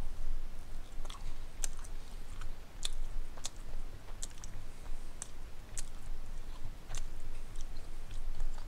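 A person chewing a bite of pizza close to a headset microphone: irregular wet mouth smacks and clicks.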